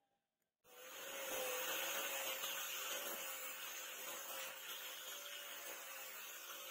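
An electric power tool's motor switches on just under a second in and spins up to a steady run: a wide rushing whir with a constant hum-tone.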